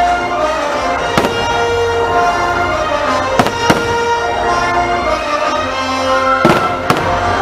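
Fireworks bursting in a series of sharp bangs, about five of them, some in quick pairs, over loud orchestral music played for the show.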